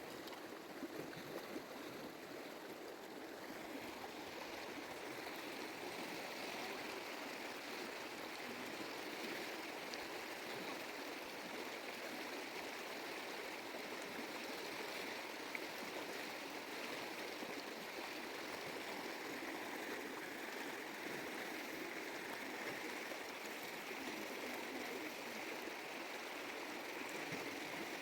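Stream water flowing steadily, an even rushing that grows a little louder a few seconds in.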